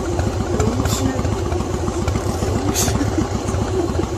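Motorcycle engine idling with a steady, rapid pulse, with two short hissy noises over it about one and three seconds in.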